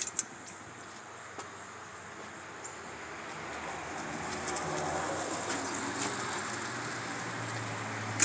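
Hampton Bay Gazebo ceiling fan running: a low motor hum under the whoosh of air from its plastic blades, growing gradually louder. A light-kit pull-chain click sounds at the very start.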